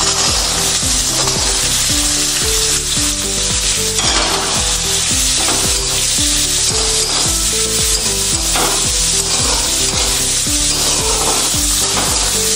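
Butter and oil sizzling steadily in a wok as onion, bay leaf, garlic and carrot fry, with a spatula stirring and scraping the vegetables around the pan again and again.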